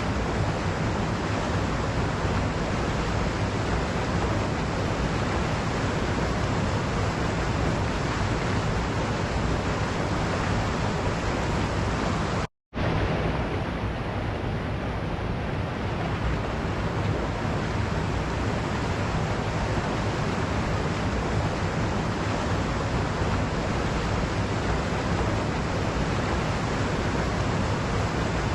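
Waterfall rushing in a steady, even roar of falling water. About twelve and a half seconds in it cuts to silence for a split second, then resumes.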